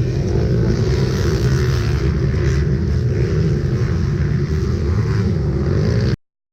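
Motocross bike engines running, a steady loud engine noise that cuts off abruptly about six seconds in.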